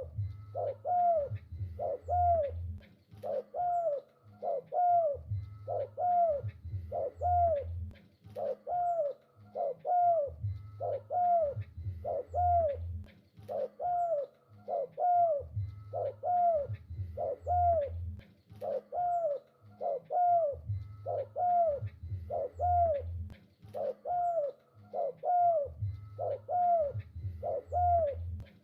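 Spotted dove cooing over and over: short arched notes about twice a second, with a deeper low sound joining in groups every few seconds.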